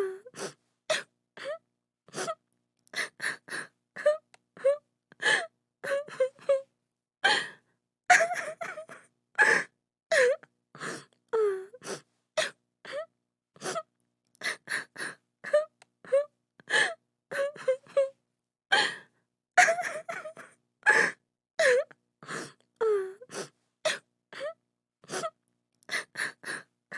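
A woman crying: short broken sobs and sharp gasping breaths, about one or two a second, with drawn-out moaning wails between them.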